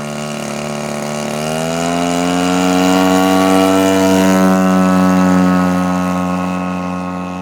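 Zenoah GT80 twin-cylinder gas engine of a large RC Focke-Wulf FW-190 model running on its takeoff. The pitch climbs a little in the first couple of seconds, then holds steady. It grows louder to a peak around the middle and fades somewhat near the end.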